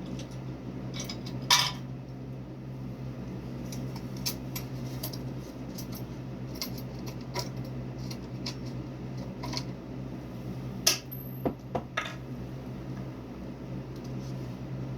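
Scattered light clicks and metal clinks of small hardware or tools being handled, the sharpest about one and a half seconds in and again near eleven seconds, over a steady low hum.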